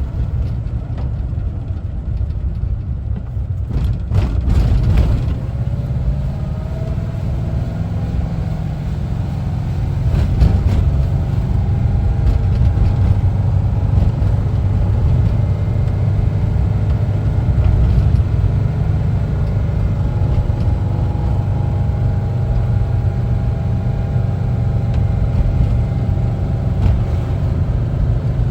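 Air-cooled flat-four engine of a 1974 Volkswagen Type 2 Westfalia camper running under way with a heavy rumble, its pitch rising a few seconds in and again about ten seconds in as the van picks up speed. A couple of brief knocks are heard along the way.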